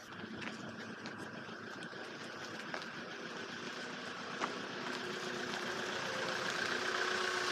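Vehicle engine idling steadily, its hum growing gradually louder.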